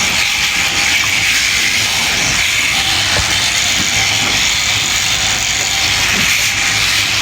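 Electric sheep shears running steadily, giving a constant high hiss with no break.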